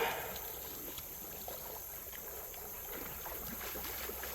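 Faint creek water trickling and lapping, with scattered small splashy ticks and one brief louder sound right at the start.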